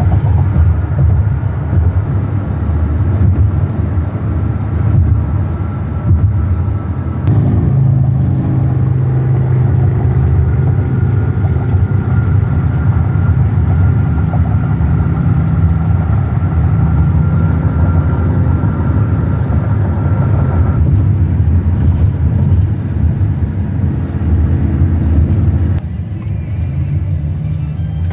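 Car driving with a steady low road and engine rumble heard from inside the cabin, with music from the car radio playing over it.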